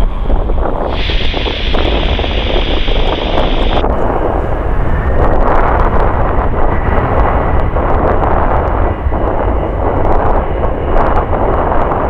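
Jet airliner's engines roaring close by on the runway, a loud continuous rumble with wind buffeting the microphone.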